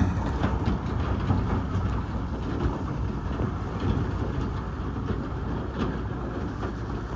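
Heavy truck engine running with a steady low rumble, with faint scattered clicks and knocks over it.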